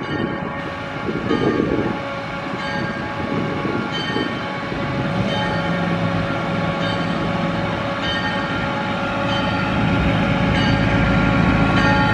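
Canadian Pacific train with a ringing struck repeatedly, about once every 1.3 seconds, typical of a locomotive bell, over a diesel engine rumble that grows louder toward the end.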